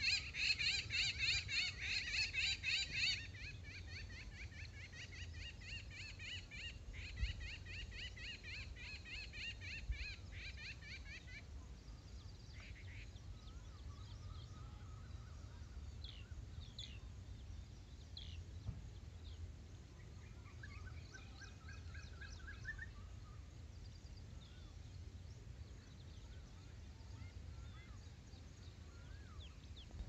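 Wild birds calling: a rapid chattering trill, loud for the first three seconds and fainter until about eleven seconds in, then scattered short chirps and a brief trill, over a low steady rumble.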